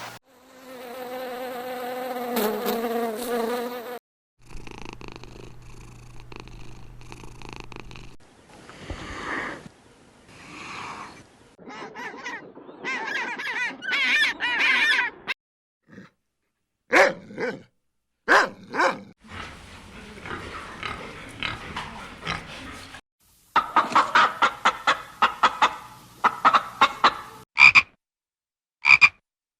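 A series of separate animal-call recordings cut one after another, with frogs croaking. There are rapid runs of croaks about three-quarters of the way through.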